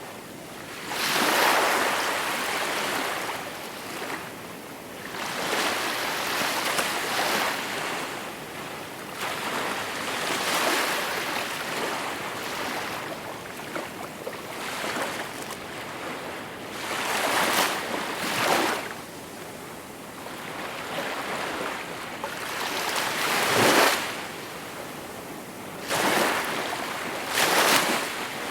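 Gentle sea waves washing onto the shore, swelling and falling back in irregular surges every few seconds. The strongest breaks come near the middle and toward the end.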